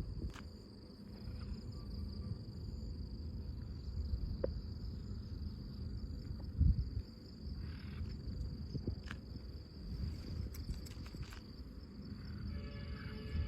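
Steady high insect chirring outdoors, with wind rumbling on the microphone and a few light clicks. A short pitched call sounds near the end.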